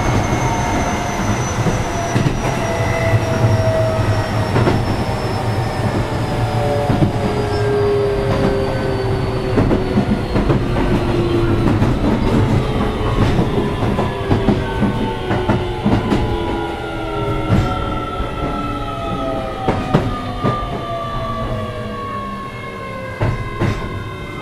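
Interior running sound of a Keio 7000-series electric train car as it slows: the traction motors' whine falls steadily in pitch over a deep rumble, with scattered wheel clicks over rail joints.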